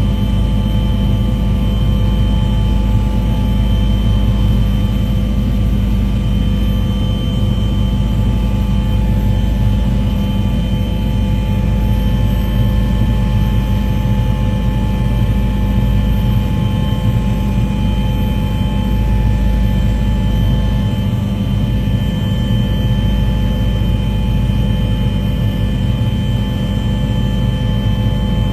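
Aircraft engine drone, steady and unchanging: a low rumble with several steady tones above it.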